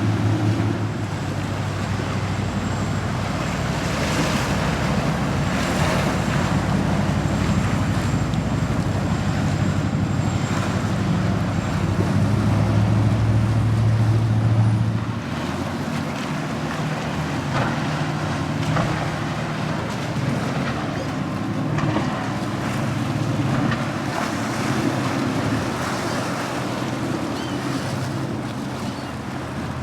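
Motorboat engines running as boats pass, over wind on the microphone and waves washing. The loudest engine hum drops off about halfway through, leaving a quieter engine running.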